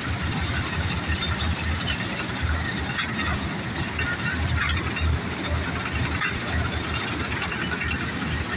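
New Holland combine harvester running steadily, its engine a low pulsing throb under a broad mechanical noise.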